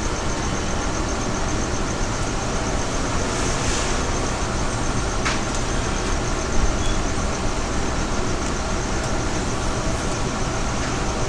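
Steady low rumble with hiss, an unbroken background noise, with a faint rapid ticking high up and one brief click about five seconds in.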